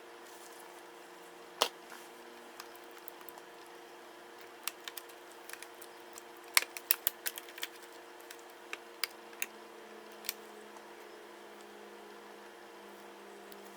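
Sharp clicks and taps of small tools on plastic and metal laptop parts during disassembly, scattered through, with a quick run of them about halfway, over a steady low hum.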